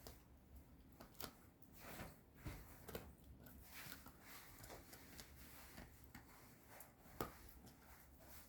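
A dog gnawing on a chew: faint, irregular clicks and crunches of teeth on the chew, with one sharper click about seven seconds in.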